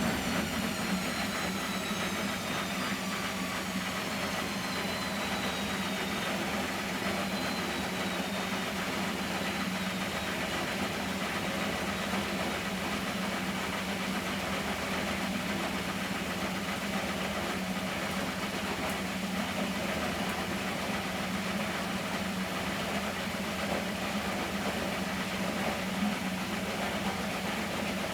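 Miele Professional WS 5426 washing machine, its motor whine falling in pitch over the first several seconds and fading out as the drum slows. A steady low hum runs on underneath.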